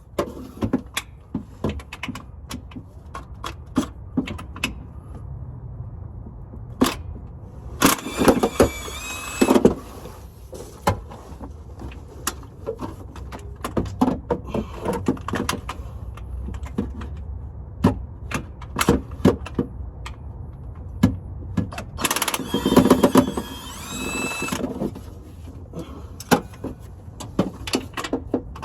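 Metal clinks and knocks of tools working on a vehicle's underside. Twice a cordless power tool runs in a short burst, once about 8 seconds in and again for a few seconds about 22 seconds in, as fasteners are run out during transmission removal.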